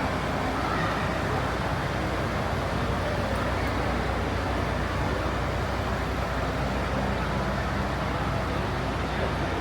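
Steady low rumble of idling truck engines under a constant outdoor noise, with no single event standing out.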